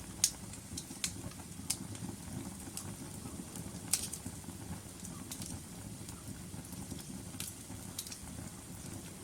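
Logs burning in a fireplace: a steady low rumble of flame with sharp, irregular crackles and pops from the wood. The loudest pops come just after the start and about four seconds in.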